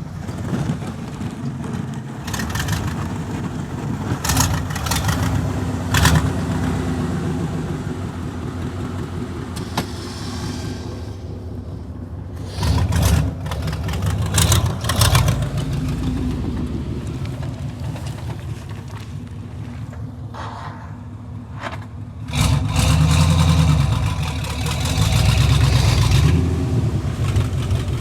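A vehicle engine running, revving up louder twice, once about halfway through and again near the end, with scattered sharp knocks over it.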